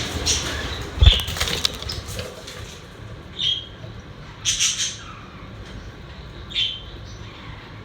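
Pet budgerigars fluttering and rustling, with a sharp thump about a second in, then a few short chirps.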